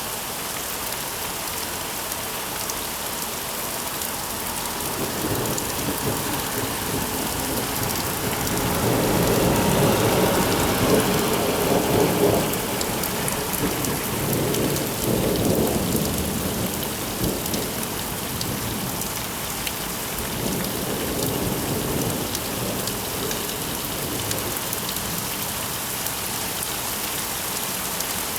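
Steady rain with a long rolling clap of thunder: the rumble builds about five seconds in, is loudest in the middle, and fades out over several seconds while the rain goes on.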